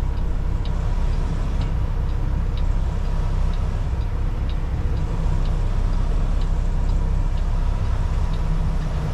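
Kenworth T680 semi truck's diesel engine idling steadily, with a light tick about once a second.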